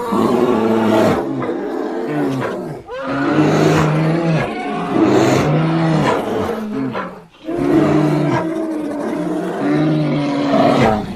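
Animated grizzly bear's creature vocal effects: layered bear growls and roars blended with big-cat roars, heard as three long, wavering growling roars with short breaks about three and seven seconds in.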